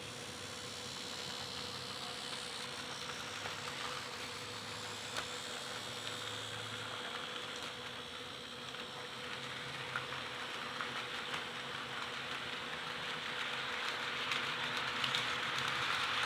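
Model train running on the track: the locomotive's small electric motor whirring steadily and the freshly fitted steel wheels rolling over the rails, with a few sharp clicks. It grows louder near the end.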